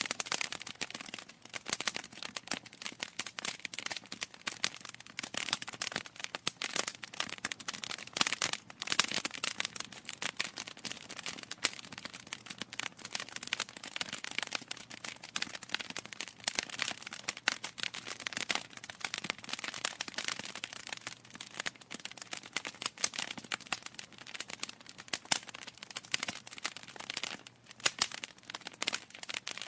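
Wood fire crackling in a fireplace: burning logs giving a dense, irregular stream of small pops and snaps, with a few louder cracks.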